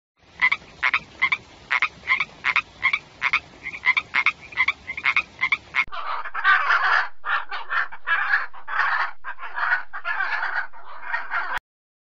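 A tree frog calling: a rapid train of short clicky croaks, about three a second. About six seconds in it gives way to a keel-billed toucan's harsh, rasping croaking calls, repeated in runs, which stop suddenly near the end.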